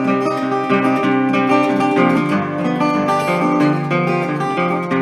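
Acoustic guitar strummed and picked in a steady rhythm, an instrumental passage between sung verses of a folk song.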